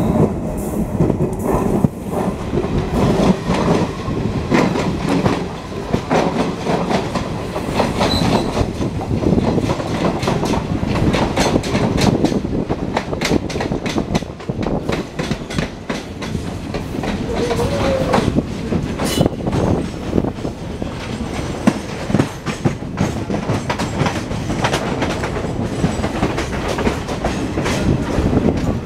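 Passenger train running at speed, heard from an open coach door: a steady rumble and rushing air, with a dense clickety-clack of wheels over rail joints and points throughout.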